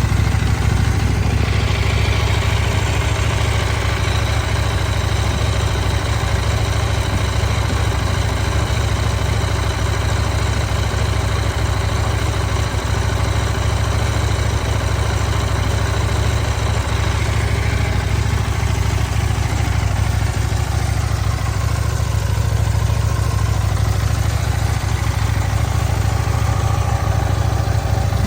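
Husqvarna Svartpilen 801's parallel-twin engine idling steadily through its stock exhaust, with no revving.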